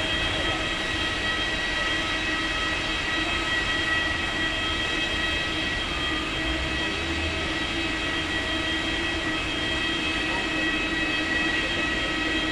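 Steady whine of an aircraft's turbine, several high tones held level over a low rumble, without rising or falling.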